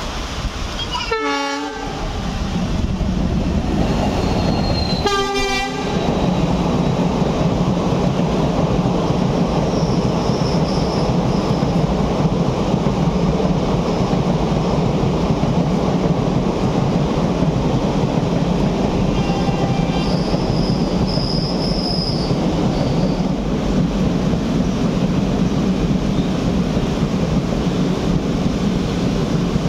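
Express train's locomotive sounding two short horn blasts, about one second and five seconds in, as it approaches. Then its coaches run past with a steady rumble and wheels clicking over the rail joints, with brief high wheel squeals near ten seconds and again a little after twenty seconds.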